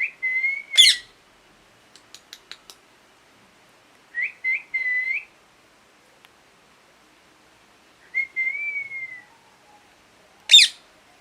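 Parrot calling: three drawn-out whistles at one steady pitch, at the start, about 4 s in and about 8 s in, the middle one broken into short pieces. Two sharp screeches falling steeply in pitch come just after the first whistle and near the end, with a few faint clicks at about 2 s.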